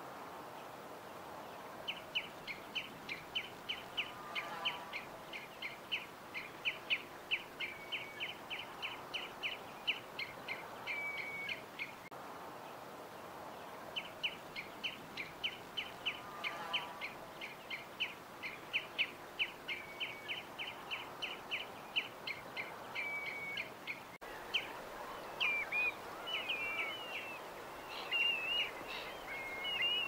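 A songbird repeating a rapid high chirp, about four a second, in two long runs that each end on a lower held whistle; near the end it changes to varied, warbling calls. A fainter, lower bird call comes in twice, over a steady background hiss.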